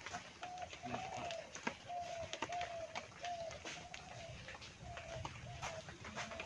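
A bird calling a long series of short hooting notes at one steady pitch, about two a second, over scattered sharp clicks and knocks.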